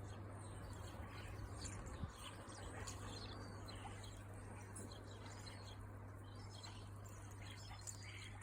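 Birds chirping with many short, high cheeps while feeding, over a steady low hum, with one sharp knock about two seconds in.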